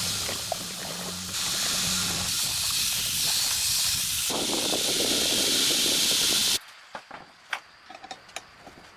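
Loud, steady hissing that changes character twice, then cuts off abruptly about six and a half seconds in; a few faint clicks follow.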